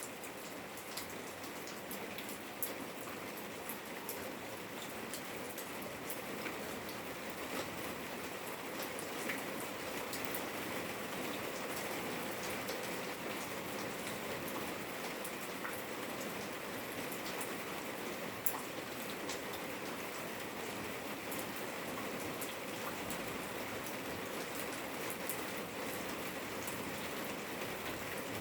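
Steady rain falling in a yard, with many individual drops ticking and pattering sharply on hard surfaces over a constant hiss.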